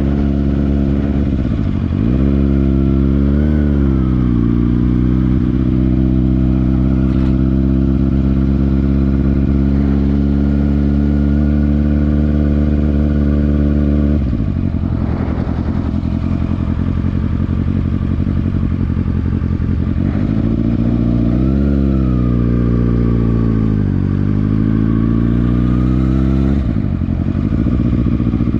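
Kawasaki ZX-6R's inline-four engine running while riding, holding a steady note for long stretches, with the pitch rising and falling about two seconds in, around halfway, and a few seconds before the end.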